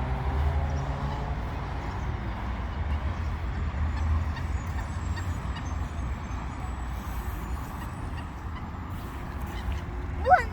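Steady low rumble with a loud bird call, a short harsh squawk, near the end; waterbirds are being fed bread at a pond.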